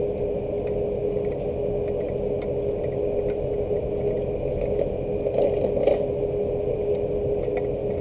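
Rain, heard as scattered drop ticks, over a steady low mechanical hum that holds one constant tone. A short cluster of sharper ticks comes about five and a half seconds in.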